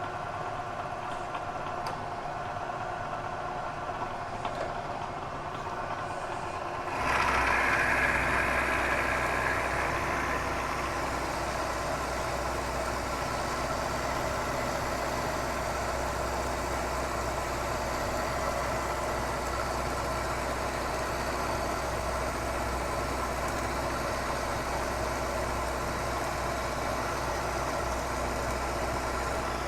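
Bridgeport milling machine running a corncob roughing end mill through a 150-thousandths-deep roughing cut in metal. The sound steps up and grows fuller about seven seconds in, then runs steadily under load.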